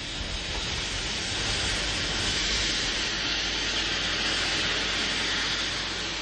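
Train running, a steady rushing noise over a low rumble that swells a little in the first couple of seconds and then holds.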